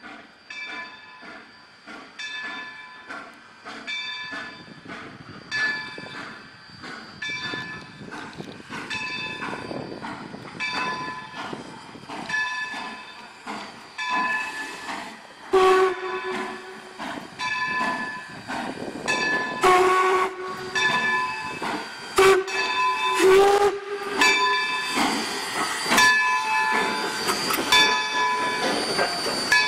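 Steam locomotive's bell ringing steadily, about one stroke a second. From about halfway the steam whistle joins in with several blasts, along with loud bursts of steam hiss as the locomotive prepares to pull out.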